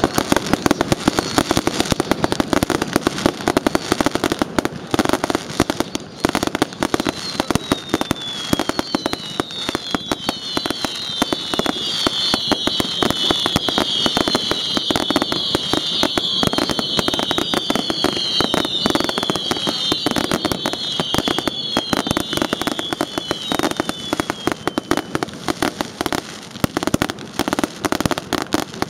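Fireworks going off in a dense, continuous string of crackling pops and bangs. From about a quarter of the way in until a few seconds before the end, many overlapping falling whistles run through them.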